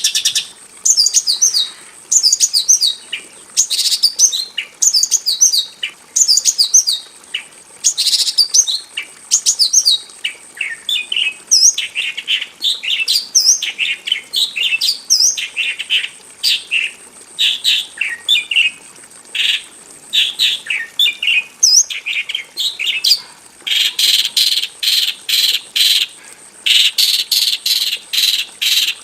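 Horsfield's bush lark (Javan bush lark) singing a continuous, varied song of short, quick chirps and trills in phrases about a second long. The notes come in denser, rapid runs near the end.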